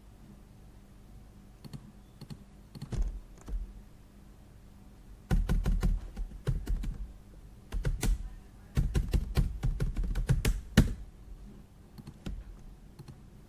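Typing on a computer keyboard in two quick bursts of key clicks, after a few scattered keystrokes.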